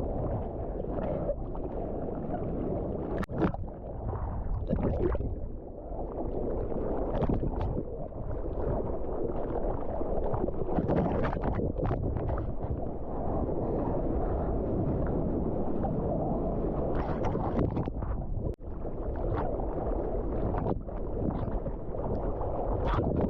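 Muffled water sloshing and gurgling against a surf camera's housing, mixed with wind buffeting the microphone, with occasional brief splashes.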